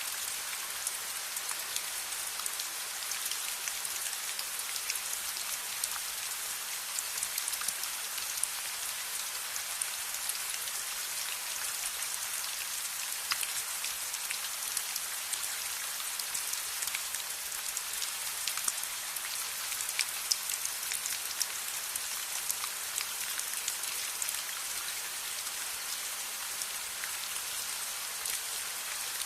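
Steady rain with an even hiss, scattered with many small sharp ticks of drops striking a surface.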